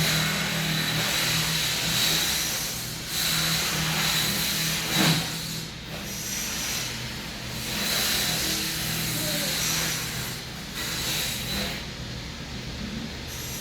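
Deep, hissing breaths through the nose in pranayama breathing practice, each breath lasting about two to three seconds, with short pauses between them. A sharp knock comes about five seconds in.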